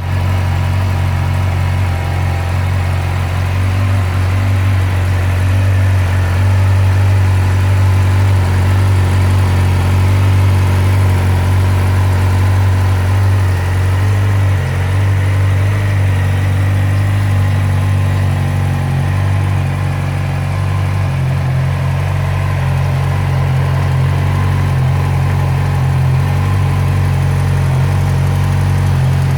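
2015 Yamaha YZF-R6's inline-four engine idling steadily, with no revving.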